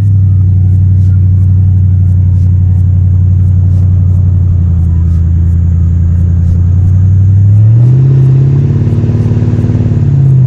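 Exhaust of a Mercury Grand Marquis 4.6-litre V8 with its mufflers removed and the catalytic converters kept. It idles with a deep, loud rumble, then is revved once about eight seconds in, the pitch rising, holding briefly and falling back.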